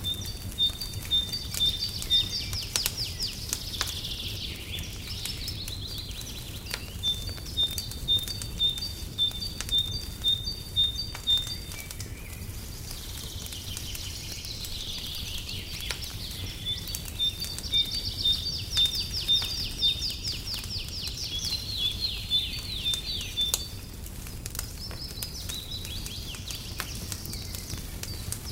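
Songbird singing: strings of short high chirps at about two a second, broken by fast trills, in two long runs with a gap about halfway through. Under it a fireplace crackles with scattered small pops over a low steady rumble.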